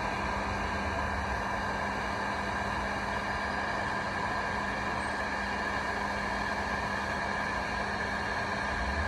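Electric heat gun running steadily, a constant blower hum with a fixed motor tone, as it heats a Northstar engine thermostat to test whether it opens.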